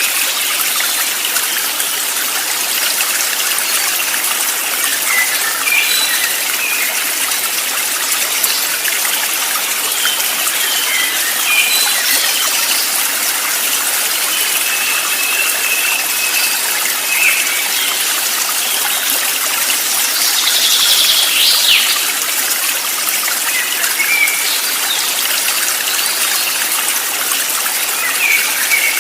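A stream of running water, steady throughout, with short bird chirps scattered across it and one louder rattling call about two-thirds of the way in.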